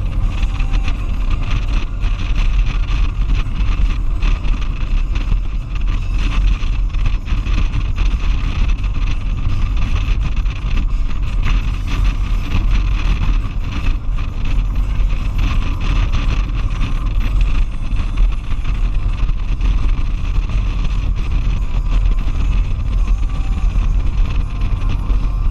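Motorcycle riding at speed: steady wind rush buffeting a helmet-mounted camera, with the engine and road noise running underneath.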